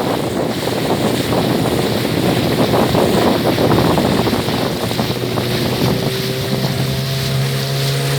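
A small boat's motor running steadily under way, with wind buffeting the microphone and water rushing past the hull. The motor's low hum stands out more clearly from about five seconds in as the wind noise eases.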